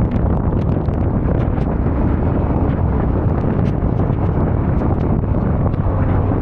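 Yamaha Ténéré 700 parallel-twin motorcycle running steadily while riding, with a heavy low rumble of wind buffeting the microphone over it.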